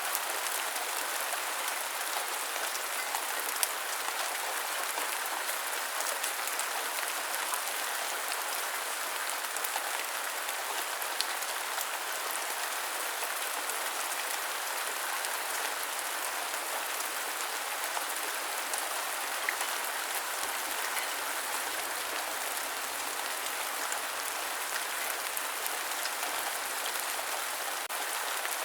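Steady rain: an even hiss of falling drops, with a few louder single drop ticks here and there.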